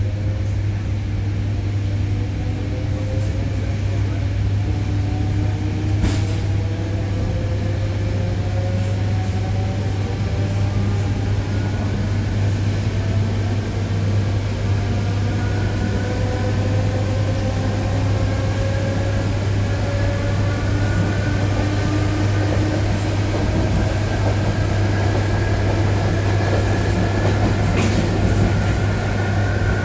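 ED9E electric train accelerating: the traction motors' whine climbs slowly in pitch, several tones rising together over a steady low hum, with an occasional knock from the wheels.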